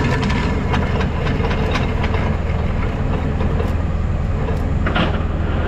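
Rollback tow truck's engine running steadily at a low rumble, with scattered metallic knocks and clicks and a brief higher-pitched scrape about five seconds in.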